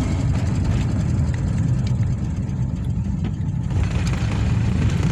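Square-body VW Gol on a test drive with newly refitted front brake-caliper hardware: a steady low rumble of engine and road noise.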